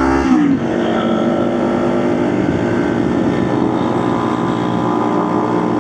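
Motorcycle engine running while riding. Its pitch drops sharply about half a second in, then it runs steadily.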